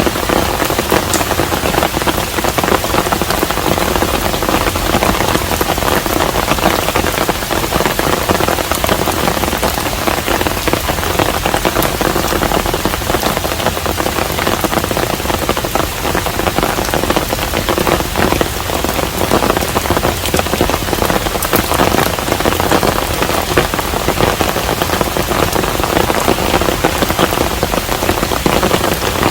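Steady rain falling on a traditional Korean hanok house, a dense even rush with many close individual drop hits.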